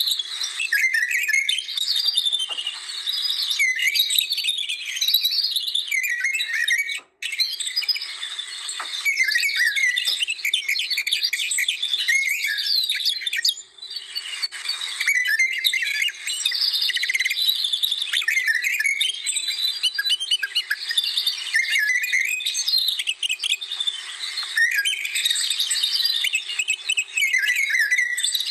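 Many birds singing at once: a dense chorus of overlapping chirps and short whistles, with two brief dropouts, one about seven seconds in and one near the middle.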